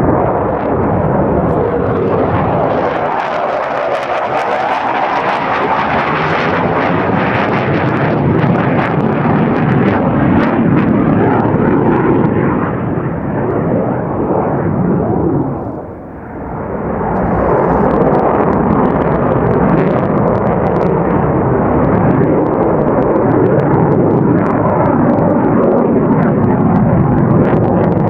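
Jet noise of a JASDF F-4 Phantom's General Electric J79 turbojets as the fighter makes low passes, a loud continuous rush with a brief dip about halfway through before it builds up again.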